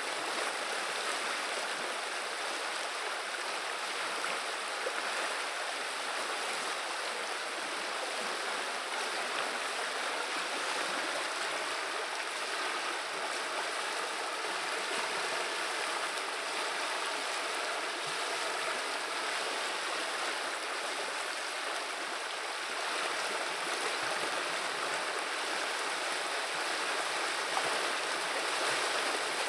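Steady rushing and babbling of a river's running water, an even, unbroken sound.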